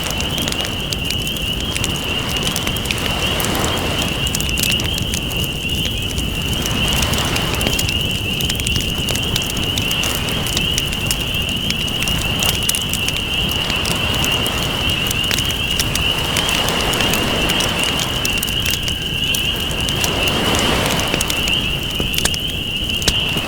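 Wood campfire crackling with frequent sharp pops, over ocean waves that swell and wash in about every four seconds. A steady high-pitched whine runs underneath.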